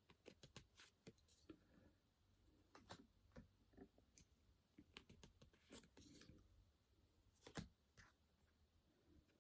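Faint clicks and short rustles of Pokémon trading cards being handled and flipped through, with a sharper click about seven and a half seconds in.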